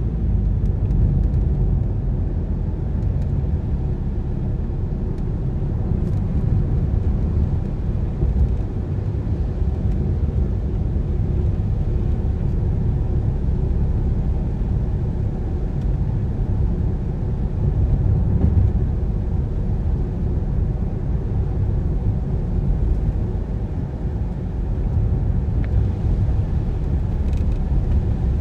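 A car on the move: a steady low rumble of engine and tyre noise.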